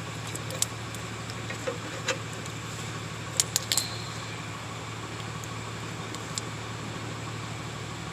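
A few short metallic clicks and taps from brake caliper hardware being handled and fitted, a cluster of three or four about three and a half seconds in, over a steady low hum.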